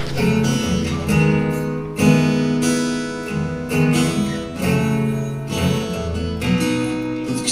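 Acoustic guitar strummed, playing chords that change every second or two as an instrumental lead-in before the singing comes in.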